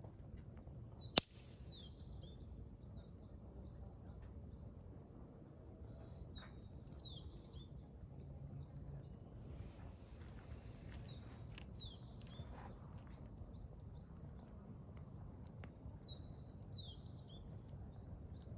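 A songbird singing the same short phrase four times, about every five seconds, each a quick run of high repeated notes stepping downward. About a second in, a single sharp pop from the burning firewood is the loudest sound, over a low steady background rumble.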